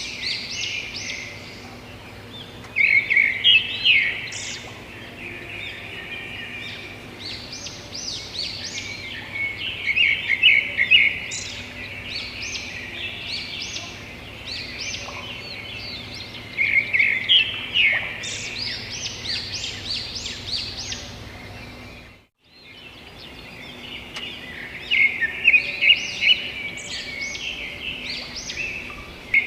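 Several birds chirping and singing in a dense, overlapping chorus of quick high notes. The sound cuts out briefly about three-quarters of the way through, then resumes.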